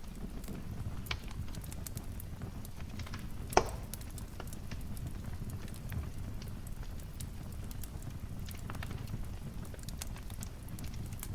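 Wood fire crackling in a fireplace: scattered small snaps over a low rumble, with one sharper, louder pop about three and a half seconds in.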